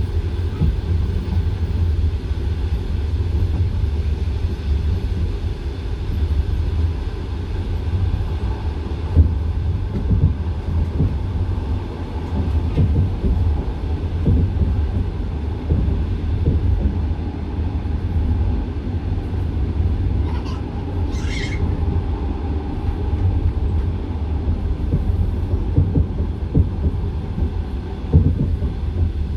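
Passenger train carriage wheels on the rails, heard from inside the car: a steady low rumble with frequent irregular knocks from the wheels. About two-thirds of the way through comes a brief higher-pitched sound.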